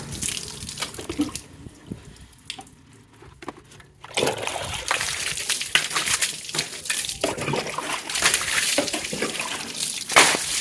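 Water splashing and running off a motorcycle as it is rinsed during a wash. It eases off for a couple of seconds, then comes back on strongly.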